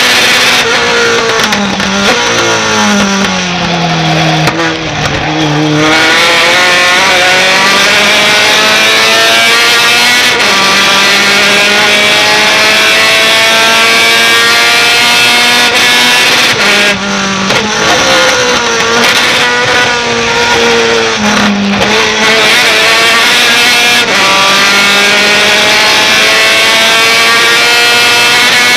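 Race pickup truck engine at full throttle. Its pitch climbs steadily over long stretches, then drops sharply several times as the driver lifts off and changes down for corners.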